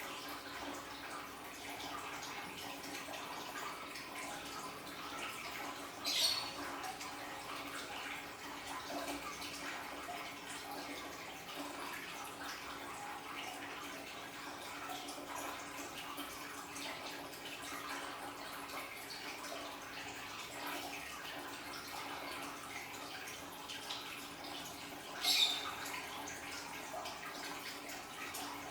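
Water trickling and splashing steadily from a small aquarium waterfall, with a faint steady hum underneath. There are two brief louder splashes, about 6 seconds in and again near the end.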